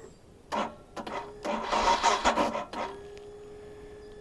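Royal Enfield Himalayan's electric starter clicking, then cranking the engine sluggishly for about a second without it catching: the battery is too weak to turn the engine over in the cold. A faint steady whine is heard before and after the crank.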